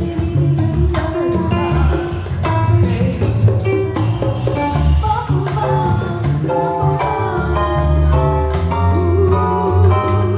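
Live band playing a song with drums, bass and a singer, with a steady beat.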